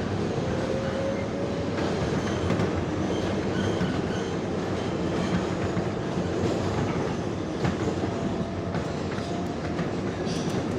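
R142A subway train running between stations, heard from inside the car: a steady rumble of wheels on rail with a few clicks over rail joints and a faint whine.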